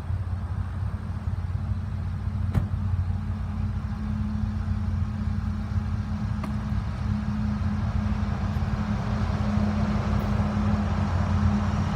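Diesel freight locomotives, a GE ET44AH leading an EMD SD70ACE, approaching with a steady low engine hum that slowly grows louder. There is a single sharp click about two and a half seconds in.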